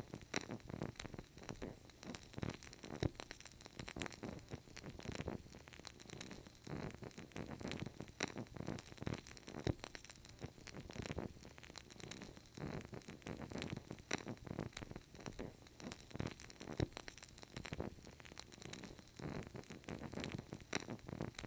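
Burning candle crackling: a continuous run of irregular small crackles and ticks, several a second, over a soft hiss.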